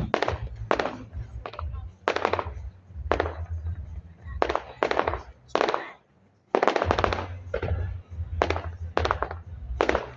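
Fireworks display: a rapid series of aerial shell bangs, about one to two a second, each with a short echoing tail, over a low steady hum.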